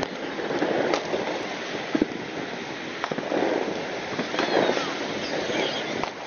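Fireworks going off, a series of sharp bangs and crackles about a second apart, over steady crowd noise, with the audio sped up by a fast-forward effect.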